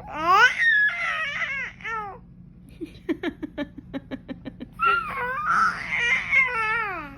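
A baby vocalizing: high squeals that glide up and down, then a quick run of short repeated babbled syllables, then more squealing cries near the end.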